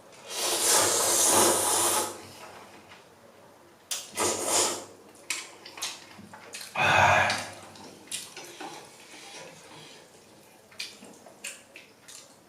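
Slurping instant ramen noodles: three loud slurps, the first about two seconds long, then soft mouth clicks of chewing.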